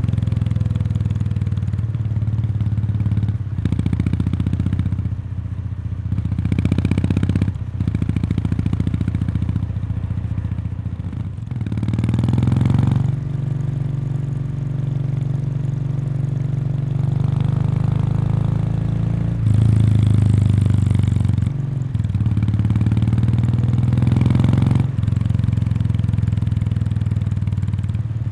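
Kawasaki Meguro K3's air-cooled 773 cc parallel twin running through its stock muffler, heard close to the muffler outlet while riding. The note rises and falls with the throttle, with short drops in level every few seconds like gear changes, and is loudest about two-thirds of the way through.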